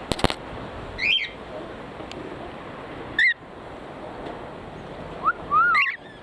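Cockatiel calling: short chirps about a second in and again about three seconds in, then rising whistled notes near the end. A few sharp clicks at the very start.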